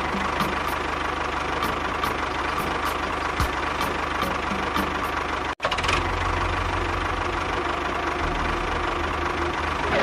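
Engine running steadily at an even speed, broken by a sudden cut about halfway through before it carries on unchanged.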